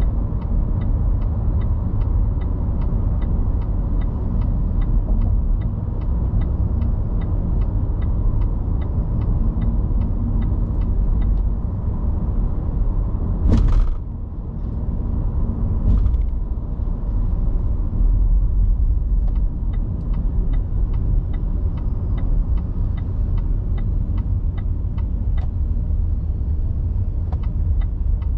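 Car driving on a city road: a steady low rumble of engine and tyres, with a faint regular ticking about twice a second. About halfway there is one sharp, loud crack, and a smaller one a couple of seconds later.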